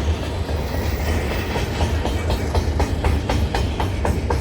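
Freight train cars rolling past with a steady deep rumble and wheels clicking over rail joints, the clicks coming sharper and at several a second from about a second and a half in.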